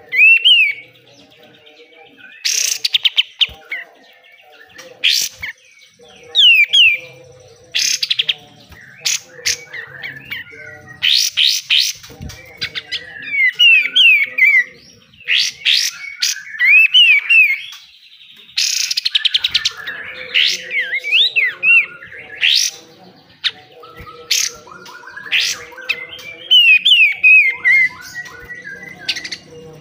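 Kapas tembak (katem) songbird singing hard, the rapid harsh 'besetan' style: bursts of rattling, buzzy notes alternate every second or two with quick up-and-down whistled phrases. A faint steady hum runs underneath.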